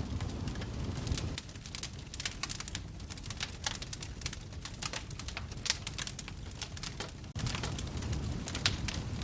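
Wood fire crackling in a fireplace, with irregular sharp pops and snaps over a low rumble of flames. The rumble thins after about a second and a half, then comes back after a sudden brief dropout about seven seconds in.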